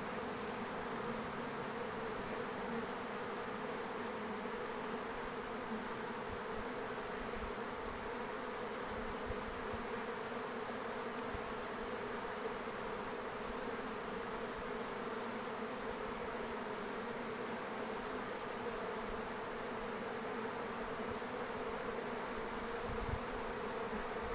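Steady buzzing hum of a honey bee swarm, many bees flying at once around the capture box's entrance.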